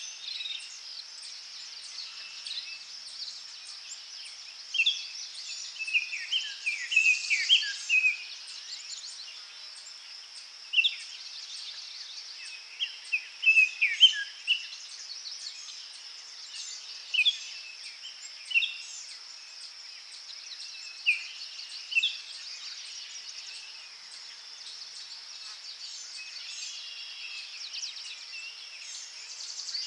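Forest ambience: a steady high-pitched insect drone with birds chirping and singing short phrases on and off, in clusters about 5 to 8 seconds in and again around 13 to 14 seconds.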